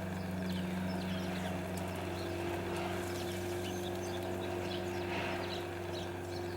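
A steady low mechanical hum, with small birds giving short, high, falling chirps again and again over it.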